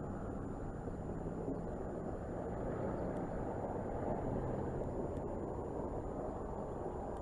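Steady low rumble of a vehicle engine running, with faint low humming tones and no clear bird call.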